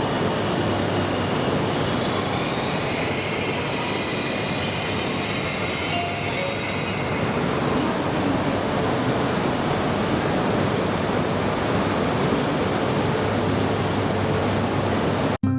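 Train running along the rails, with high, thin wheel-squeal tones over the running noise that fade out about halfway through.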